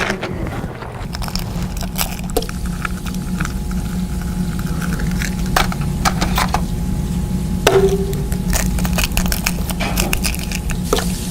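Noisy eating of a crunchy snack: scattered sharp crunches and cracks over a steady low hum.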